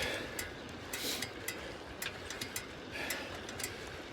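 Irregular light clicks over a steady low rumble and hiss, with brief swells of hiss about a second in and again about three seconds in.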